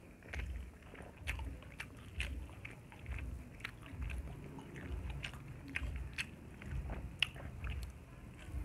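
Close-miked chewing and eating mouth sounds: an even chewing rhythm of a little over one chew per second, with wet lip smacks and clicks, as pork and rice eaten by hand are chewed.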